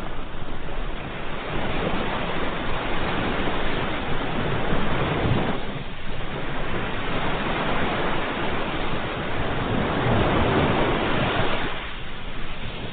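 Ocean waves washing in, a steady rush of surf that swells and eases twice: one wave up to about halfway, a second that builds and then falls back near the end.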